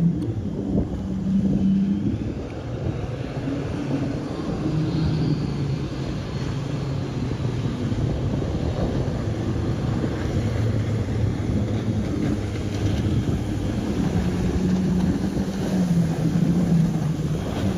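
Jet boat engine running hard across floodwater, its drone shifting in pitch as it goes, with water and wind noise around it.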